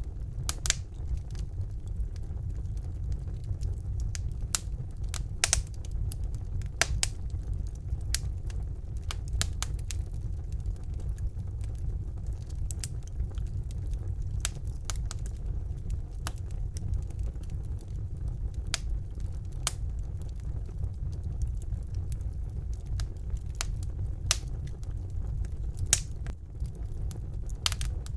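Wood fire burning in a fireplace, with a steady low rumble of the flames and frequent sharp, irregular crackles and pops from the burning logs.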